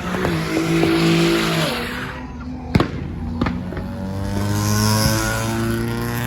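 Car engine revving hard with tyre squeal as it launches, then two sharp cracks a little past the halfway point while the engine note runs on and drops.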